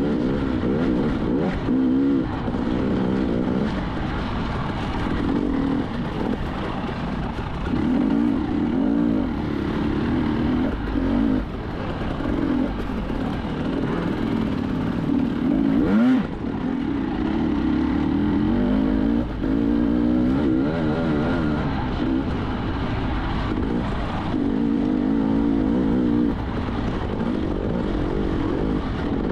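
Enduro motorcycle engine revving up and down with the throttle, its pitch rising and falling every second or two, with one sharp knock about halfway through.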